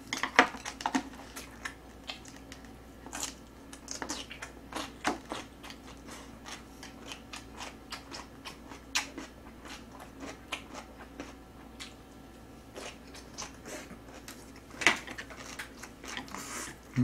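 Close-up eating sounds: chewing and crunching, with scattered small clicks of chopsticks and a wooden spoon against a paper cup.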